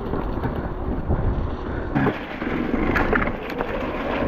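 Electric mountain bike riding a wet, rooty trail: wind rumble on the microphone, with the tyres and bike frame rattling over the ground and a cluster of short clicks and knocks in the second half.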